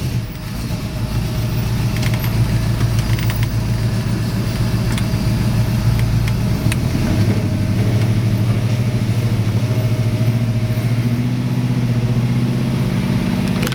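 Blueprinted 383 V8 of a 1962 Chevrolet Nova II running cold as the car pulls away gently. Its low, steady drone rises a little in pitch about seven seconds in and again near eleven seconds.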